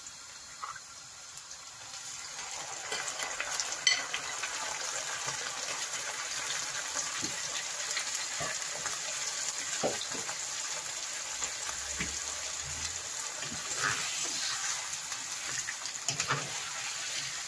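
Yogurt-marinated chicken sizzling as it fries in hot oil and ghee in a nonstick wok. A metal spoon scrapes and taps against the pan now and then. The sizzle builds about two seconds in and then holds steady.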